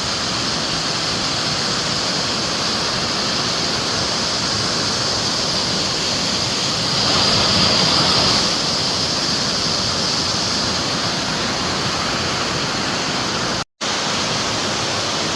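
Kadunce River waterfall: a steady rush of falling water, swelling slightly about halfway through, with a split-second dropout near the end.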